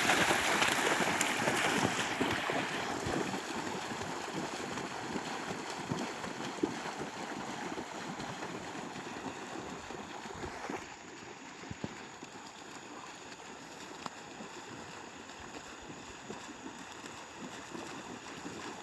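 Water splashing and churning as runners' legs drive through it, loudest at first and fading over the first few seconds, then dropping further about eleven seconds in.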